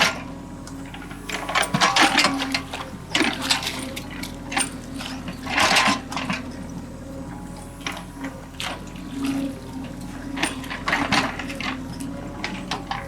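Toy excavator's small electric motor humming steadily, with irregular wet scrapes and splashes as the bucket works through mud and water.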